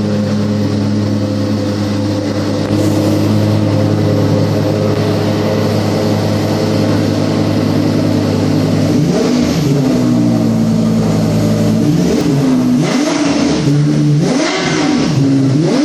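Lexus LFA's 4.8-litre V10 idling steadily, then revved: a first rise and fall about nine seconds in, followed by several quick blips of the throttle, the pitch shooting up and dropping back each time.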